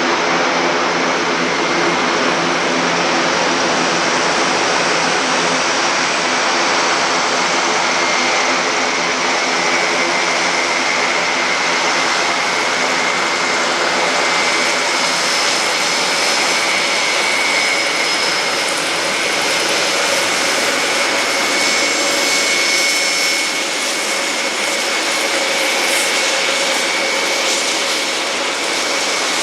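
Airbus A400M's four TP400 turboprop engines running loud and steady, a low propeller drone with a high whine over it. The low drone weakens after about twelve seconds while the whine carries on.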